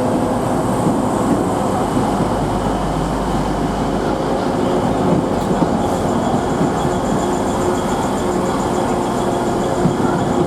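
Transpennine Express Class 185 diesel multiple unit moving through on its diesel engines: a steady, loud rumble with a droning tone, and a thin high whine joining about halfway through.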